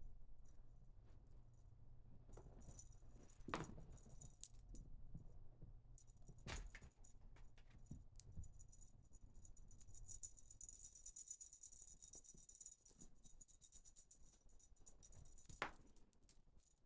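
A kitten's dangling toy rattling and jingling faintly as she grabs and kicks at it, busiest for a few seconds past the middle, with a few soft knocks.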